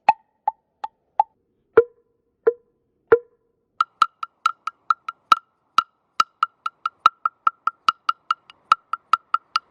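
A series of sharp, hollow wooden knocks, each with a short ringing tone. There are about six at one pitch, then three lower ones, then a faster run of about twenty higher-pitched knocks at roughly three or four a second.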